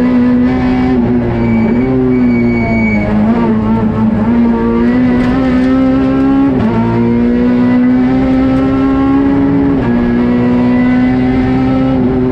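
Peugeot 208 R2 rally car's four-cylinder engine running hard under load, heard from inside the stripped cabin. Its note climbs slowly, then drops sharply about six and a half seconds in and again near ten seconds before climbing again.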